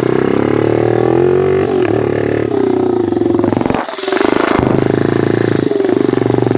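Pit bike's small single-cylinder engine running under way with a steady drone. It eases off briefly about four seconds in, then picks up again.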